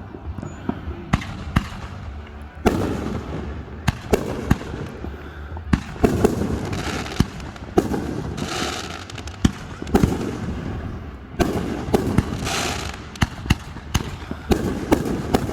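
Fireworks show: aerial shells bursting one after another at irregular intervals, each sharp boom trailed by an echoing rumble, with crackling bursts in between.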